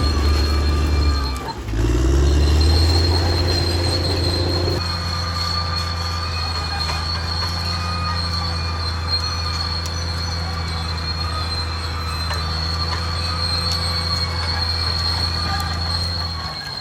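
Caterpillar D6R XL bulldozer's diesel engine running under work with a steady, high-pitched metallic squeal from the moving steel tracks. About a second and a half in, the engine note briefly drops and then slides back up, and it settles lower a few seconds later.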